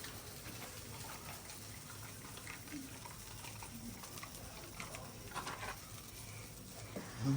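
Faint steady hiss of a pan on the stove, with a few soft knocks a little past the middle.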